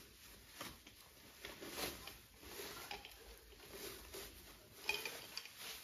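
Household items being handled and set down: irregular light clinks, knocks and rustles, with one sharp click about five seconds in.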